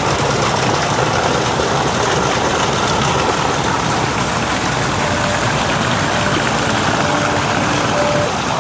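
Flowing water rushing steadily from a garden stream's water feature, with a few faint short tones in the second half.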